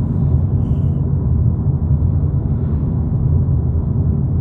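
Steady low road and engine rumble of a 2022 VW Polo GTI, with its 2.0-litre turbocharged four-cylinder, cruising at road speed, heard from inside the cabin.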